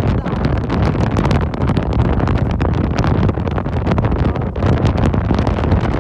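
Wind buffeting the microphone at the seaside: a loud, continuous low rumble with rapid gusty flutter.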